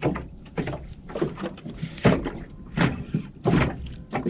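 Repeated knocks and thumps against a small jon boat, about one every half second to second, over a low rumble.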